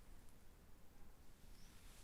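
Near silence: a faint low background rumble and hiss, with one faint short chirp near the end.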